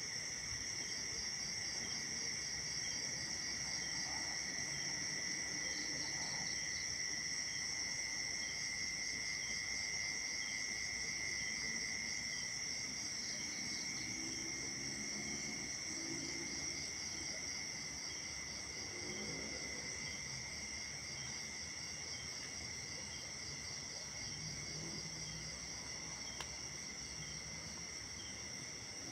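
A steady chorus of night insects, with two continuous high trills and a faster pulsing chirp running over them. Faint low calls rise and fall beneath the chorus around the middle.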